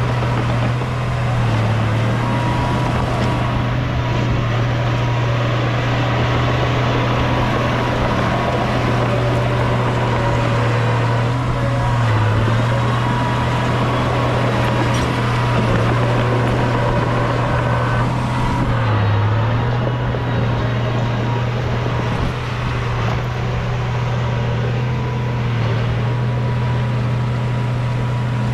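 Bulldozer's heavy diesel engine running steadily while working. Its low note dips briefly about four times, as if momentarily loaded down.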